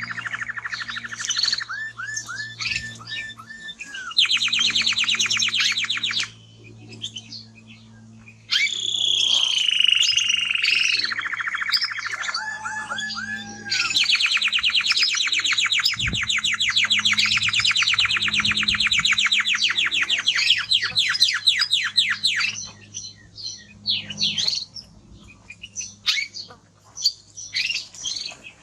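Male timbrado canary singing a long, loud song of rapid trills and rolling notes. A fast trill runs from about four seconds in, and a much longer one fills the middle; the song breaks into shorter scattered notes near the end.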